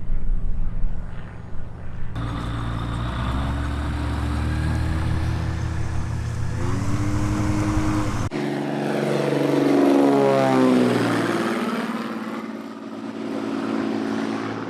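Light single-engine propeller airplane running steadily. About eight seconds in it cuts to a light plane passing low by, its engine pitch sweeping as it goes past.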